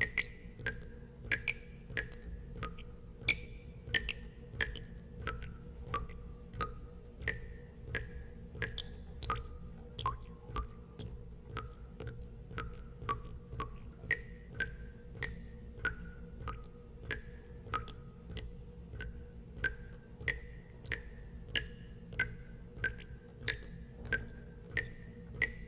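Water drops falling one after another into water, each landing as a short plink, about two a second in a steady rhythm, the pitch of the plinks drifting up and down from drop to drop. A steady low hum runs beneath.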